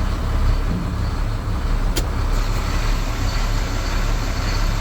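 Dump truck's engine idling steadily with a low rumble, with one sharp click about two seconds in.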